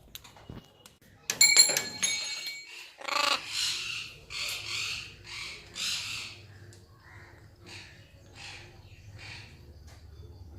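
Pet parrot giving a series of harsh squawks, loud at first and then weaker and more spaced out. A loud ringing rattle comes just before the squawks begin.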